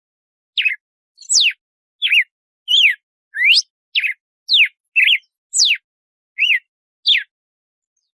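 Red-cowled cardinal (galo-de-campina) singing its 'açoite' song: about eleven clear, sharp whistled notes, each sweeping quickly up or down in pitch, coming roughly two a second with short silences between. The song stops about a second before the end.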